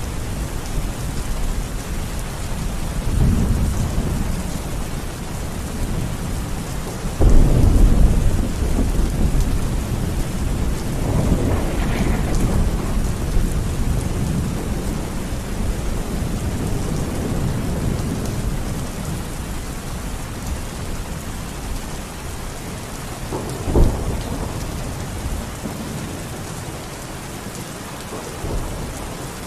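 Steady rain with rolling thunder: low rumbles come and go, a loud thunderclap breaks about seven seconds in, and a shorter sharp crack comes about three-quarters of the way through.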